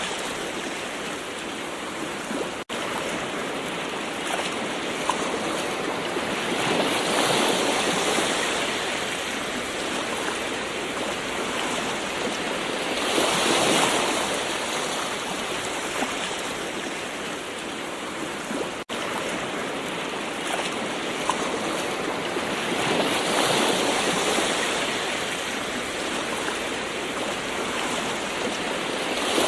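Gentle ocean waves washing in: a steady surf hiss that swells several times as waves break and recede.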